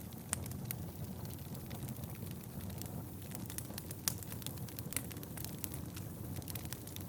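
Wood fire burning in a fireplace: a steady low flame rumble under frequent sharp crackles and pops, with louder pops about a third of a second in and around four seconds in.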